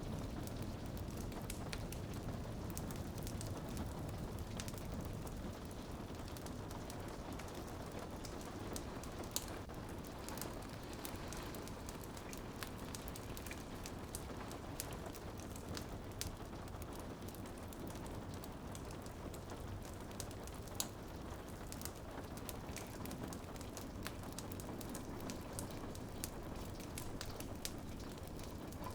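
Rain on a window mixed with a crackling wood fire: a steady hiss of rain, scattered with frequent sharp clicks and pops.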